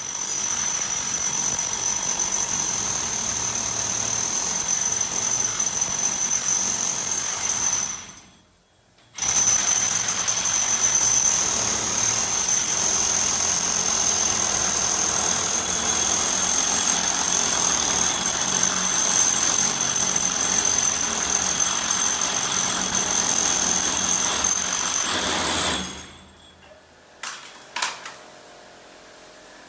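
Handheld electric power tool running steadily with a high whine. It stops for about a second, starts again and runs on, then cuts off near the end, followed by a couple of short knocks.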